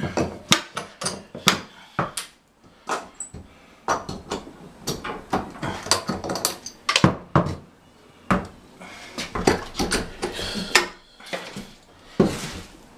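Hard building pieces being handled and fitted during renovation work: a string of irregular sharp knocks and clacks, a few a second.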